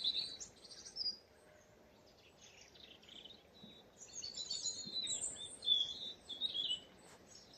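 Small woodland songbirds calling: a string of short, high, thin chirps and twitters, sparse at first and busiest in the second half.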